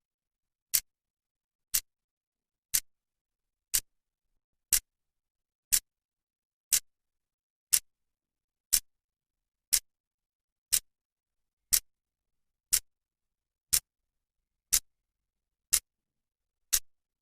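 A clock's second hand ticking, one sharp, crisp click every second with silence between the ticks.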